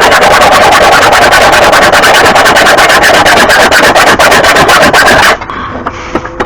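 Power grinder running against steel, grinding metal off the heavy end of a lawn mower blade to balance it. It runs for about five seconds, then stops.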